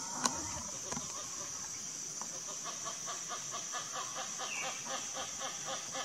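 A bird calling a rapid, even series of clucking notes, about five a second, beginning a couple of seconds in. It sounds over a steady high insect drone, with one sharp click just after the start.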